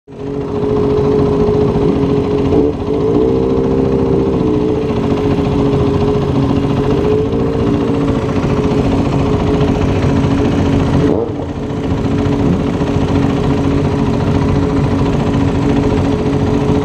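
Supermoto motorcycle engine running steadily at road speed, with wind rush. The engine note wavers briefly about three seconds in and dips again around eleven seconds, as with a gear change or a roll-off of the throttle.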